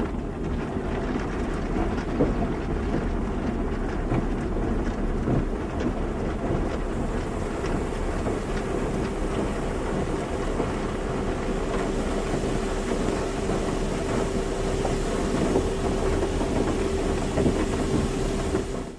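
Automatic car wash running: a steady rushing, rumbling noise, with a faint steady hum that joins about eight seconds in.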